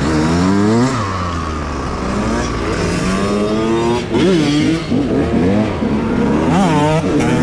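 Off-road motorcycle engines, a KTM EXC and a big-bore Derbi, revving under way. The engine pitch climbs and drops again and again as the bikes run up through the gears, with quick rev blips near the end.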